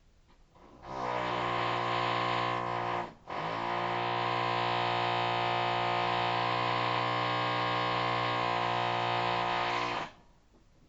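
Electric rotary hammer drill (perforator) running with a steady, harsh buzz: a short run of about two seconds, a brief stop, then a long run of about seven seconds that cuts off near the end.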